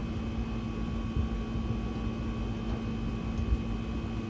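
A steady mechanical hum: a constant low tone with fainter, higher steady whines over a low rumble.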